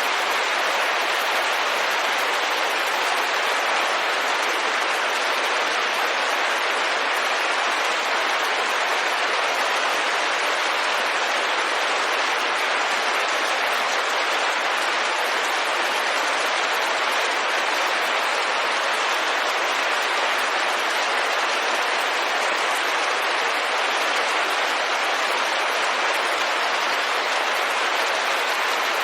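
Steady rain on a window: an even, unbroken hiss with no separate drops or thunder standing out.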